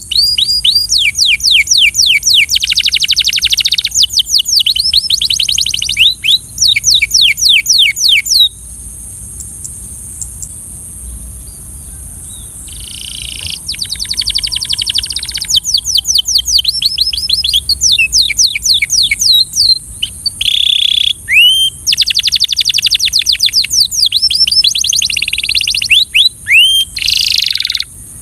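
Canary singing: fast trills of quick repeated falling notes, delivered in phrases with a pause of several seconds about a third of the way in. A steady high hiss runs underneath throughout.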